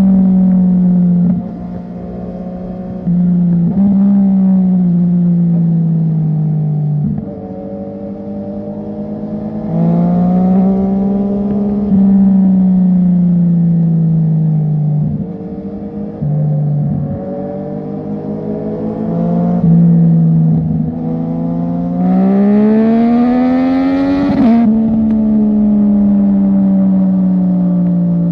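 Sport motorcycle engine through a loud aftermarket exhaust, ridden hard through the gears: the pitch climbs under throttle, then falls off as the throttle is rolled back, several times over. Near the end comes the longest climb, which breaks off with a sudden drop in pitch.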